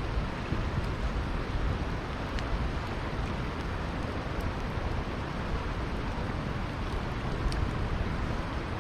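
Steady rushing of a flowing river, with a few faint campfire crackles.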